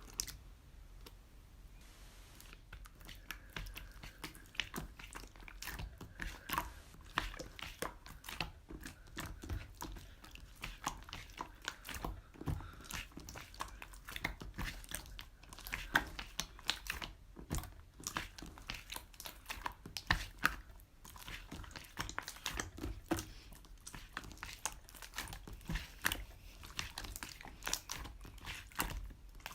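Close-up, irregular crunching and crinkling noises, a dense run of small crackles and clicks with no steady rhythm.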